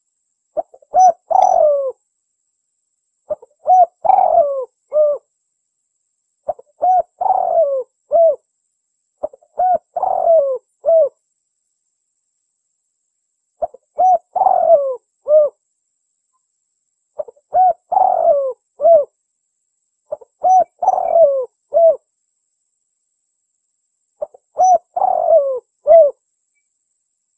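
Spotted dove (tekukur) cooing: about eight repeated phrases of several mellow coo notes each, every phrase lasting a second or two, with short silent pauses between them. It is the call of a contest-class bird, used as a lure to draw in wild doves.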